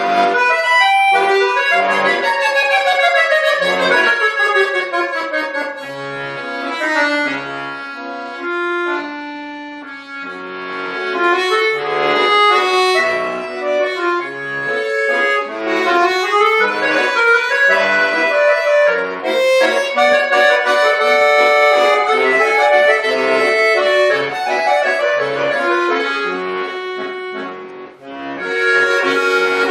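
Bayan (Russian button accordion) playing a solo piece. Fast descending runs come a few seconds in and a rising passage in the middle, with a brief drop in level near the end before the playing picks up again.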